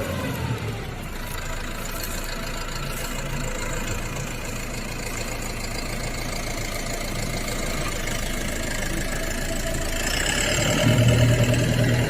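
Silage harvester's engine and machinery running steadily. A whine falls in pitch at the start, and near the end it grows louder with a deeper hum, as if taking load or speeding up.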